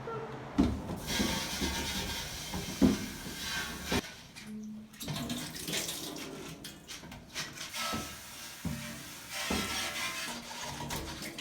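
Water running and hissing from a tap in two spells with a short break between, with a few sharp knocks as things are handled.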